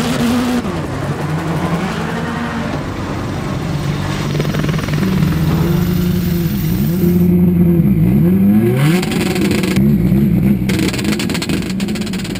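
Subaru Impreza WRX STI rallycross cars' turbocharged flat-four engines revving hard, the pitch climbing and falling repeatedly, with sharp drops and quick climbs about eight and ten seconds in.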